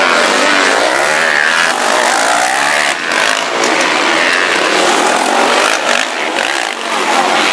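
Several motocross bikes racing, their engines revving up and down and overlapping in pitch.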